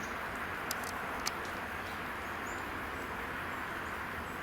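Steady outdoor background noise with a few faint, short, high bird chirps and two sharp clicks about a second in.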